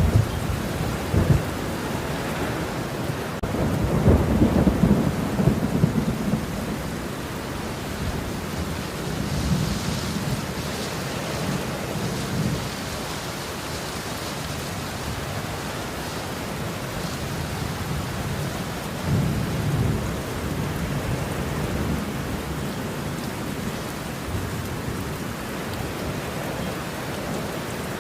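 Steady rain with thunder rumbling several times, the loudest roll about four to six seconds in.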